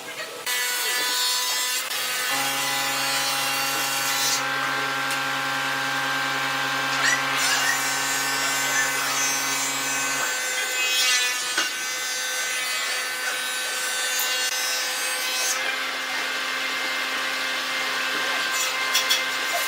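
Electric power tool running steadily and working wood, a constant motor whine over the rasp of the wood. A deeper hum joins in about two seconds in and drops away about ten seconds in.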